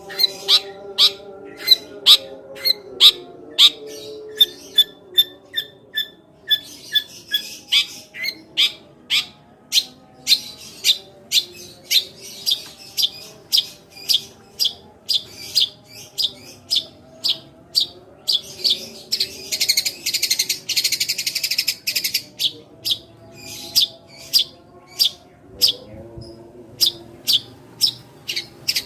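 Long-tailed shrike (cendet) singing its 'tembakan gereja' song: a steady run of short, sharp chirps in the manner of a tree sparrow, about three a second.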